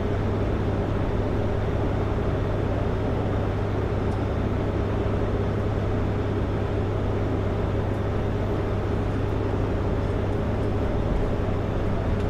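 Kenworth W900L semi truck's diesel engine running steadily under way, with a constant low hum and road noise.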